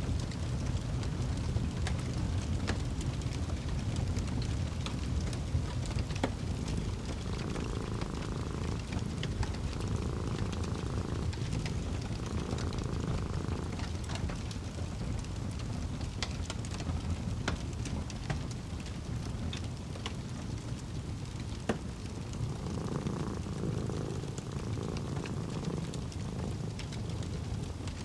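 Wood fire crackling over a steady low rumble, with sharp pops scattered throughout. A cat purrs in slow, repeated swells about every two and a half seconds, once in the middle and again near the end.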